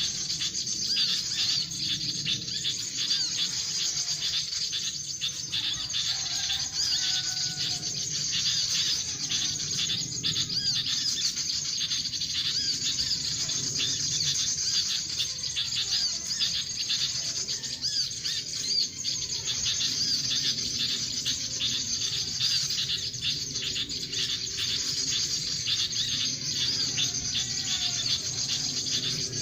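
Continuous dense, high chirping of birds and insects, with a lower whistled bird call coming back every couple of seconds.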